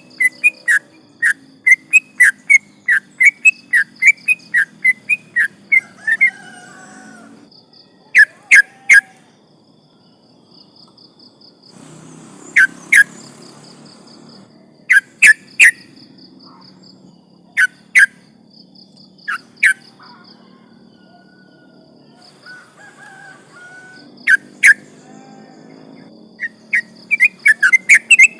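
Yellow-vented bulbul (trucukan) singing loud, sharp whistled notes, a rapid run of about two to three notes a second for the first six seconds, then only scattered single and paired notes, then a rapid run again near the end.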